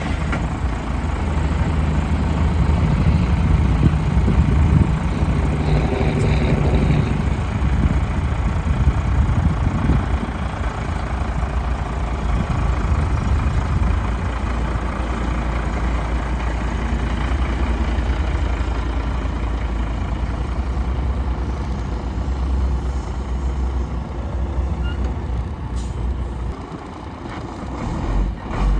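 The diesel engine of a 1991 International semi truck running at a steady idle.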